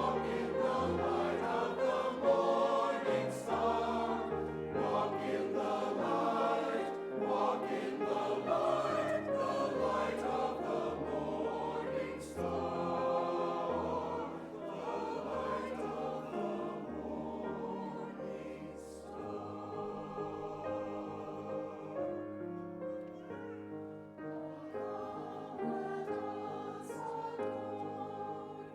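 Choir singing a Christmas choral piece with accompaniment, many voices together.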